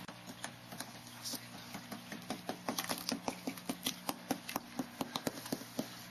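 A run of light, sharp clicks, irregular and several a second, over a faint steady hum.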